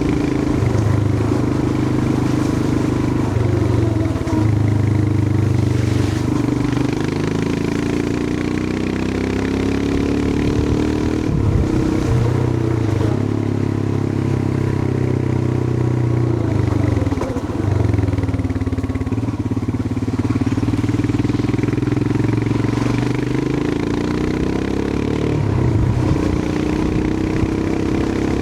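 Royal Enfield Himalayan 411's air-cooled single-cylinder engine running under way, its note dropping and climbing again several times as the throttle closes and reopens, over a steady rush of wind and road noise.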